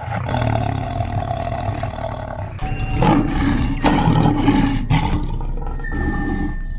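Loud, rough calls from a large animal, with an abrupt switch to a different recording about two and a half seconds in.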